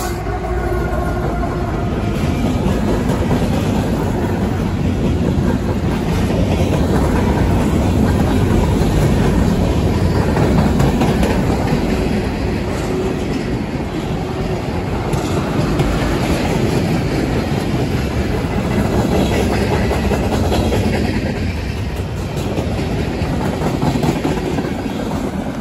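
Freight train cars, mostly tank cars, rolling past close by: a steady, loud rumble of steel wheels on rail with a clickety-clack over the rail joints.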